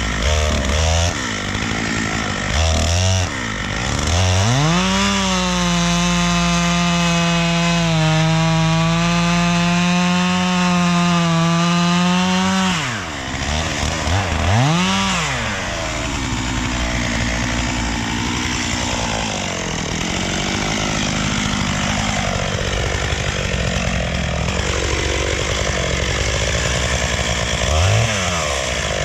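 Two-stroke chainsaw cutting into a tree trunk. It is blipped a few times, revs up about five seconds in and holds a steady high pitch for several seconds, drops off with more quick blips, then runs with a lower, wavering pitch while sawing through the wood.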